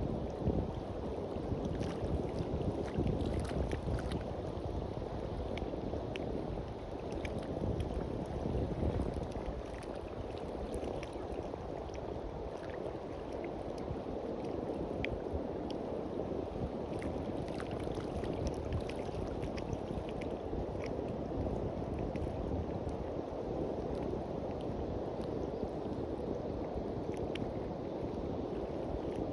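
Sea waves washing on a beach, with wind rumbling on the microphone: a steady, gusting noise with faint crackles throughout.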